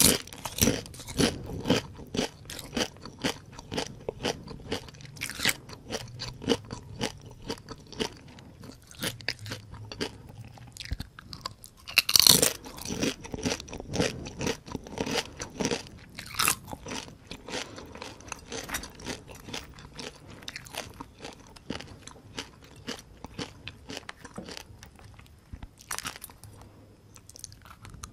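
Close-miked chewing of whole deep-fried small paddy crabs, the fried shells crunching in a dense run of crisp bites, with one loud crunch about twelve seconds in.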